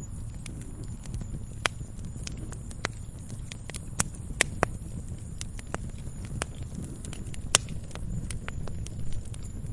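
Wood fire burning with a steady low rumble and irregular sharp crackles and pops, a few louder snaps among them.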